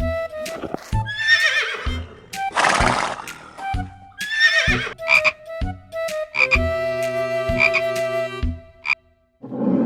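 Animal calls over background music: three rough, wavering calls in the first half, set against music with a steady beat and held notes.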